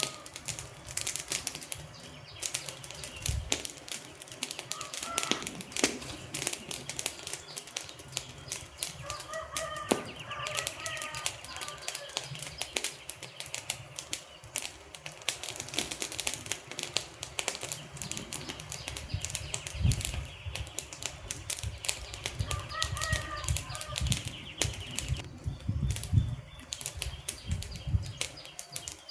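Burning wood fire crackling, with dense irregular pops and snaps over a low rumble of flames.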